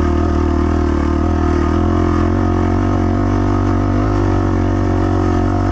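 A 250 dirt bike's engine running at steady revs, its pitch holding nearly level throughout.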